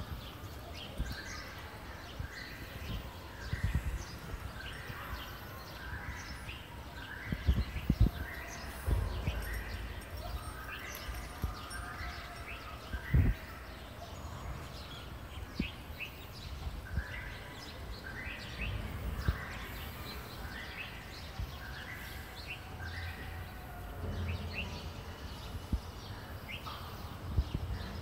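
A bird calling over and over, short high chirps about once a second, with a few sudden low thumps.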